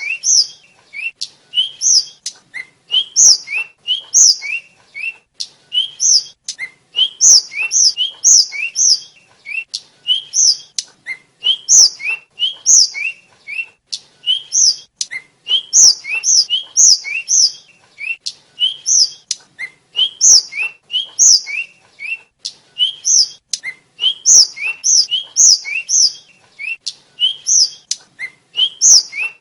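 A sikatan (tledekan) flycatcher singing a fast, unbroken string of short, high, slurred whistled notes, many falling clusters of two to four notes in quick succession.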